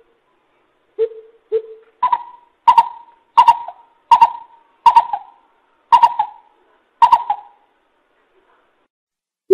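Coucal calling: two low hoots, then a series of seven higher hooting notes about one a second, each trailing off with a short echo.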